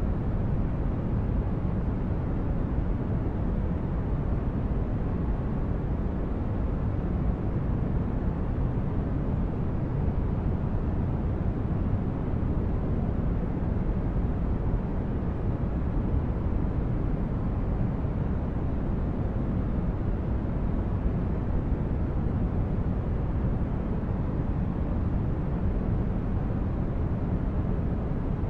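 Steady, unchanging deep noise, a low rumbling hiss with most of its weight in the bass, played continuously as a sleep and relaxation noise track.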